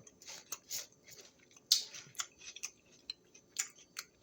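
Crisp, irregular crunching of raw green bell pepper being chewed, about half a dozen sharp crunches spread unevenly.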